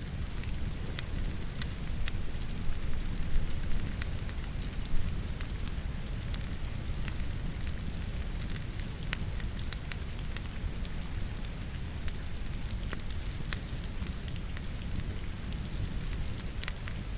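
Steady rain together with a wood fire burning in a fireplace, logs crackling with scattered sharp pops, a few louder ones near the start.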